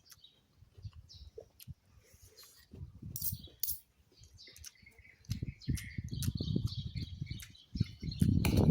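Close-miked eating sounds: irregular chewing and mouth noises with sharp clicks, busier in the second half, with a few short high chirps near the end.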